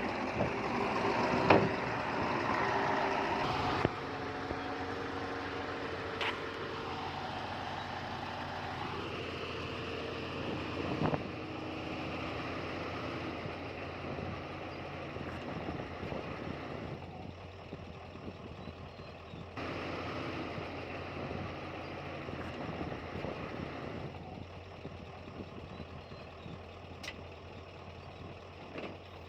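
Diesel engines of earthmoving machinery running steadily at work, with a few sharp knocks. The sound jumps abruptly in level several times.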